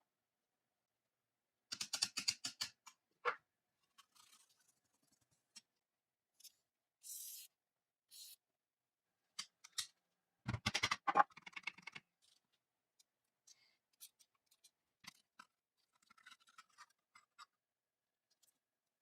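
Small metal gun parts being handled and worked: scattered clicks, knocks and scraping, with two clusters of rapid ticks and two short hisses like a brief spray or air blast.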